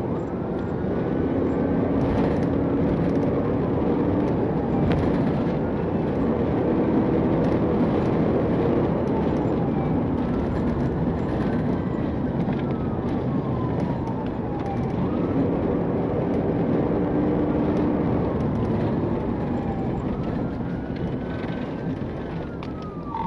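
Police siren on wail, slowly rising and falling about every five seconds, heard from inside a pursuing patrol car over steady engine and road noise.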